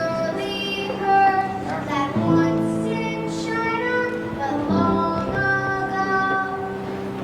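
Children singing long held notes in an opening song, with instrumental accompaniment holding steady low chords underneath.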